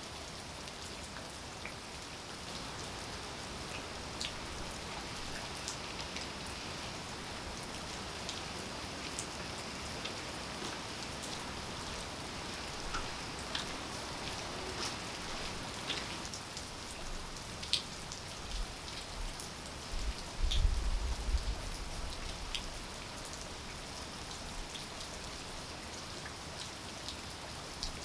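Steady rainfall with individual drops ticking sharply on surfaces. About twenty seconds in, a brief low rumble rises and falls away.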